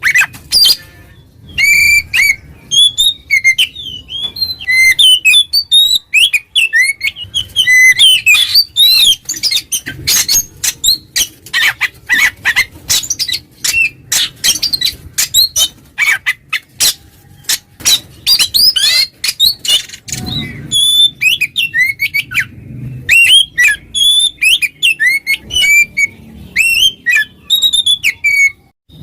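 Oriental magpie-robin (kacer) singing a loud, continuous 'ngeplong' song: short gliding whistled notes alternating with long runs of rapid harsh chattering notes. This is the challenging song used as a lure to provoke rival males.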